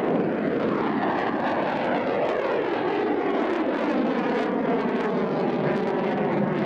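Kalibr cruise missile's rocket booster roaring during launch: a loud, steady rushing roar with a slowly sweeping, phasing tone.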